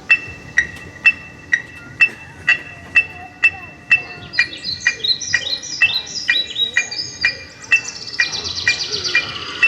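Bird chirps and calls, sparse at first, then many short falling chirps from about four seconds in that grow dense near the end, over a steady ticking of about two clicks a second with a ringing tone on each click. These are the electronic bird sounds and pulse that open the marching band show.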